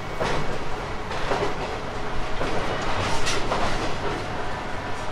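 JR 719 series electric multiple unit running along the line: a steady rumble with its wheels clacking over rail joints about once a second.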